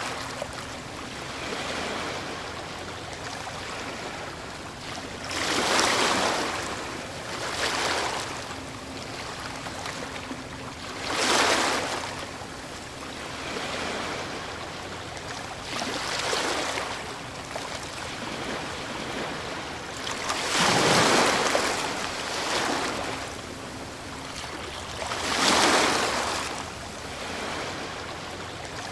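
Ocean waves breaking, each one a surge of surf that swells and falls back, about six breakers a few seconds apart over a steady wash of water. The strongest comes about two-thirds of the way through.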